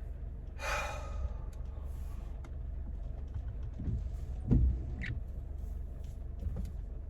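Steady low rumble of a car, with scattered clicks and knocks and one heavier thump about four and a half seconds in.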